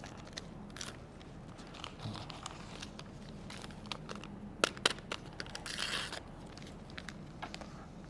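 Gelatin packets being torn open and emptied into a bowl: paper crinkling and rustling with scattered small clicks. A short burst of rustling comes just before six seconds in.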